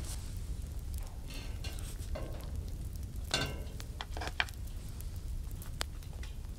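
Food sizzling as it fries in a pan on a wood stove, with a utensil scraping and clinking against the pan several times as it is stirred.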